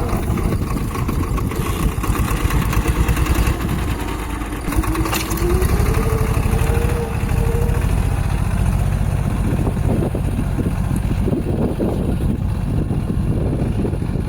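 Mahindra 245 mini tractor's diesel engine running steadily with a fast low chugging while working the field. Its pitch rises for a few seconds around the middle.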